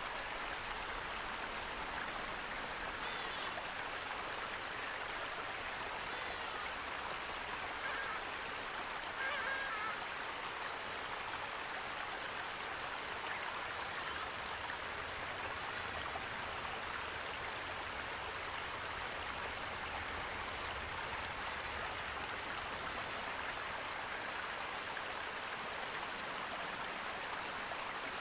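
Steady, even rush of flowing water, with a slight swell about nine seconds in.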